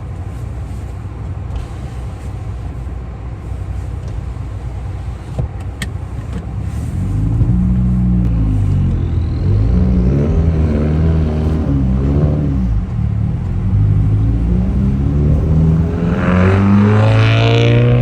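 Car engine running with a low steady rumble, then from about seven seconds in revving hard up and down again and again, as a car does while drifting. Near the end comes one long rev that rises and falls.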